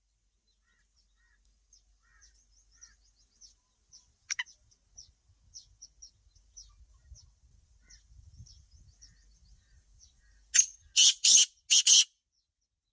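Small birds chirping in quick, high twitters, with one sharp call about four seconds in and four loud, harsh calls near the end.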